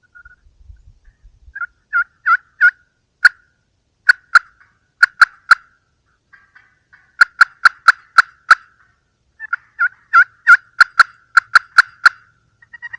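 Turkey yelps: four runs of short, sharp, loud notes, each run a handful of yelps at roughly three a second, with brief pauses between runs.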